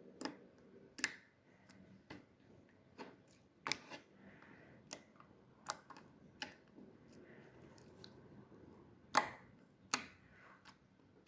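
Homemade slime being squeezed and pressed by hand to make it click: soft, irregular clicks and pops, about one a second, with two louder ones near the end.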